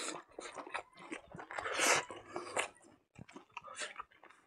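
Close-up chewing and lip-smacking of a man eating rice and silkworm larvae by hand, with many small wet clicks. A louder short rush of noise comes about two seconds in.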